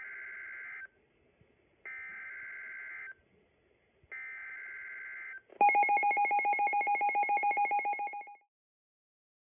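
Emergency Alert System SAME header: three identical screeching digital data bursts of about a second each, a second apart. Then a louder pulsing alert tone, about ten pulses a second, for nearly three seconds, stopping abruptly.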